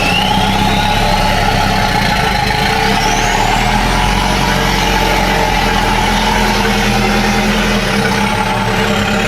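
Euro 4 diesel truck engine running steadily through an FRM racing muffler, most likely idling while parked. A thin high whistle climbs slowly over the first few seconds and falls again near the end.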